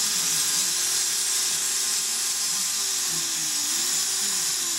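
Eachine Falcon 180 racing drone's brushless motors spinning with the props off after being armed, a steady whine over a high hiss. The pitch sags about three seconds in and climbs back.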